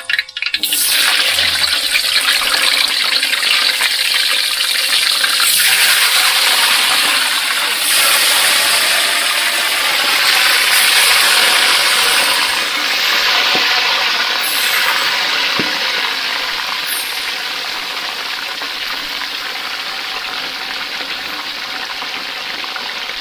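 Catfish pieces deep-frying in hot oil in an aluminium wok, a loud sizzle. It starts suddenly about a second in as the fish goes into the oil, then slowly gets quieter.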